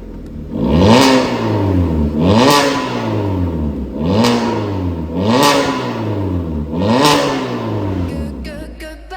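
Hyundai Venue 1.6's four-cylinder engine blipped through an MS-R valved cat-back exhaust: five quick revs, each rising and falling back, about a second and a half apart.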